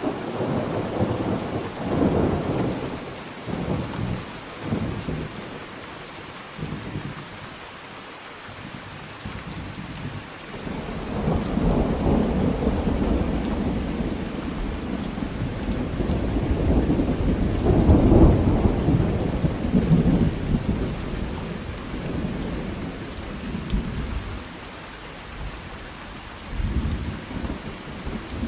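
Thunderstorm: steady rain with rolling thunder. A few short rumbles come in the first seconds, then a long roll builds from about a third of the way in and peaks past the middle before dying away, with a last rumble near the end.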